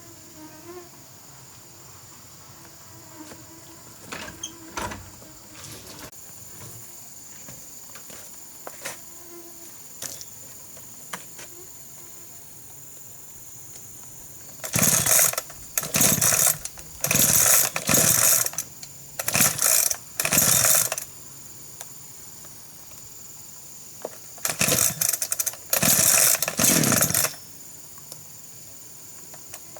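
Insects droning steadily, with a few light knocks. Then two runs of loud rasping strokes, each about half a second to a second long, six in the first run and three in the second, like a saw working through wood.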